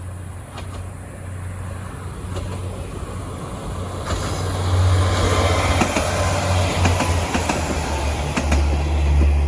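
Train passing over rail joints: the wheels click over the joints in repeated clickety-clack beats over a steady rumble, growing louder about halfway through as the train comes close.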